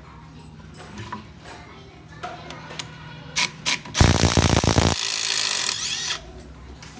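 Workshop tool noise: a few metallic clicks, then a loud one-second burst of rapid hammering from a power tool, followed by a second of hissing before it stops.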